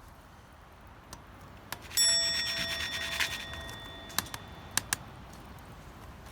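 A metal object struck once about two seconds in, ringing for about two seconds, with a few light clicks before and after.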